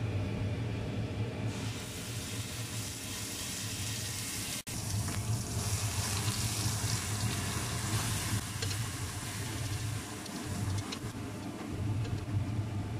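A purée poured into hot oil in a stainless steel pot, sizzling and frying steadily as it is stirred with a spoon. The sizzle grows stronger about a second and a half in, once the purée hits the oil.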